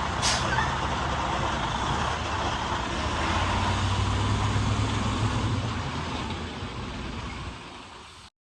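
Semi truck's diesel engine running, with a short sharp hiss just after the start. The sound fades down from about 6 seconds in and cuts off shortly before the end.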